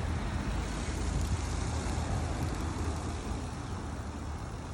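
Wind buffeting the microphone: a steady low rumble with a hiss over it, easing slightly.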